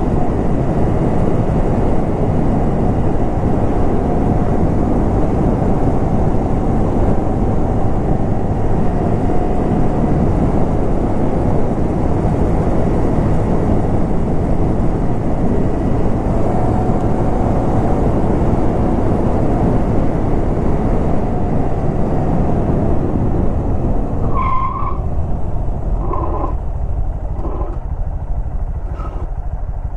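Honda Grom's 125cc single-cylinder engine running under way on its stock exhaust, mostly covered by heavy wind rush on the microphone. About three-quarters of the way in the wind noise eases as the bike slows, and a few short separate sounds stand out.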